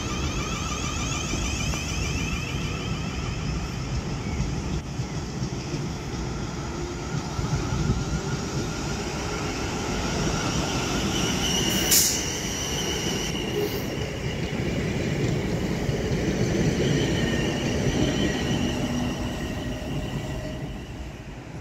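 A train moving through the station, with a steady low rumble throughout. High whining tones die away after a couple of seconds. About halfway there is a single sharp metallic clank, followed by a high ringing squeal, and the sound grows quieter near the end.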